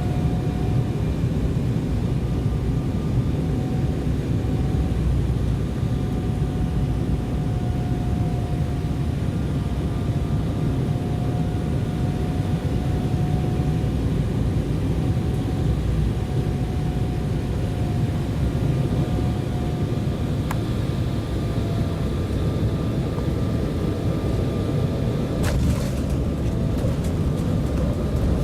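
Cabin noise inside an Embraer 190 jet airliner: a steady low rumble with a slightly wavering engine whine, and a few sharp knocks near the end.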